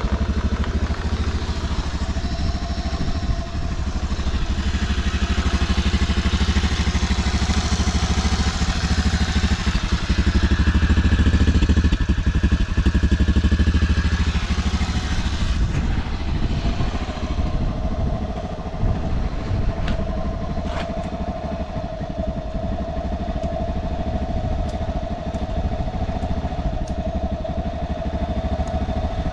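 Honda Motra AD05's small four-stroke single-cylinder engine running. It is louder and busier for about ten seconds, then settles back to a steady idle, with a few light clicks. The engine runs quietly with no abnormal noise, as the seller states.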